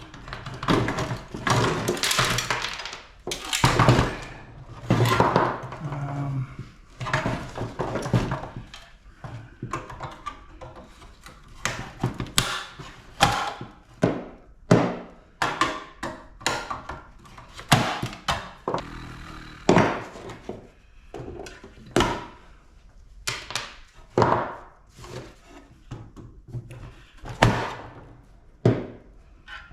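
Hand tools and metal parts knocking and clanking irregularly as an air conditioning unit is taken apart for scrap, about one or two sharp knocks a second with short pauses between.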